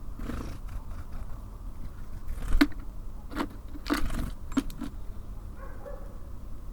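Small birds at a bird feeder, pecking and landing: a handful of sharp, irregular taps and knocks over a steady low background rumble.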